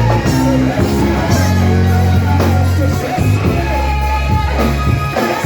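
Loud church worship music: a band with a heavy, steady bass line and guitar, with voices singing along.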